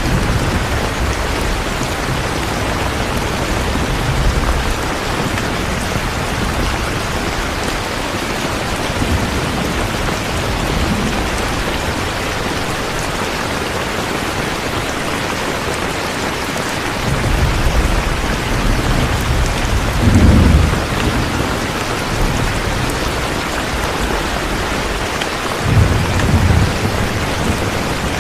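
Steady heavy rain with rolling thunder. Low rumbles swell about two thirds of the way through and again near the end.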